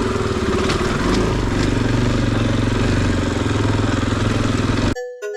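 Big single-cylinder four-stroke enduro dirt bike engine running steadily at low revs while the bike climbs over rock ledges. It cuts off abruptly about five seconds in, replaced by piano-like music.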